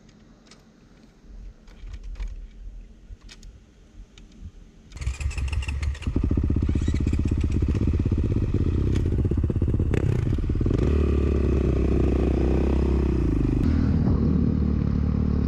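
Dirt bike engine starting about five seconds in, then running loud and steady, with the revs rising and falling.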